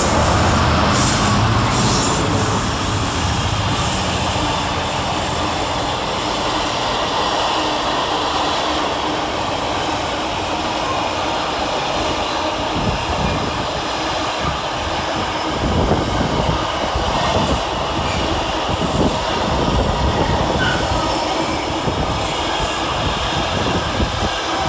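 Long intermodal freight train of wagons behind a Class 66 diesel locomotive rolling through at speed: a loud, steady rush and rumble of steel wheels on rail, with clusters of wheel knocks over rail joints in the second half.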